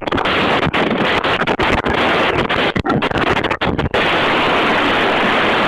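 Steady wind and road noise from a moving vehicle's onboard camera, with brief dropouts in the first few seconds.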